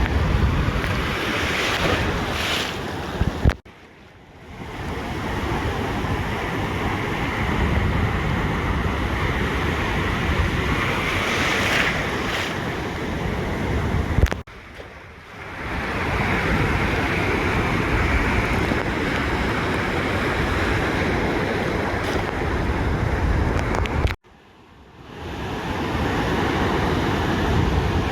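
Ocean surf breaking on a beach, a steady wash of noise with wind rumbling on the microphone. Three times, about every ten seconds, the sound drops away abruptly after a short spike and swells back within a second or two.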